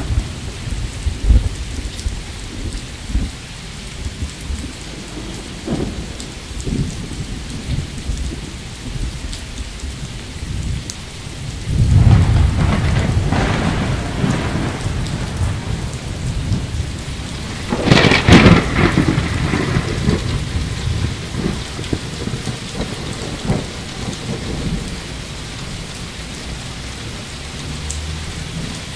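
Steady rain with rolling thunder. A low rumble builds about twelve seconds in, and a sharper thunderclap comes about eighteen seconds in and rolls away over a few seconds.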